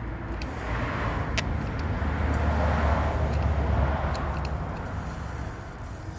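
A vehicle passing by, its noise swelling to a peak about three seconds in and then fading.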